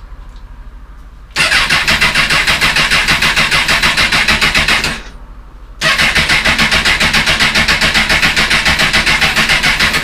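Honda CBR1000RR inline-four being turned over on its electric starter in two long cranking attempts, the second starting about a second after the first stops, each a fast, even beat of compression pulses. The engine does not fire: the bike won't run, which the owner puts down to the fuel cut-off valve being fitted upside down so that the fuel pump isn't running.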